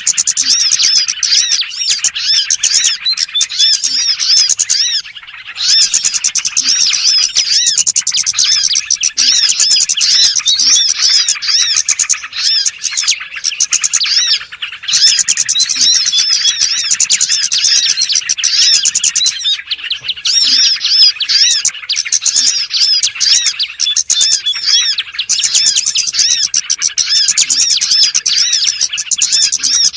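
A dense chorus of many small songbirds chirping and trilling over one another without a break, high-pitched, with a brief lull about five seconds in: a small-bird lure recording (suara pikat burcil), played to draw small birds in.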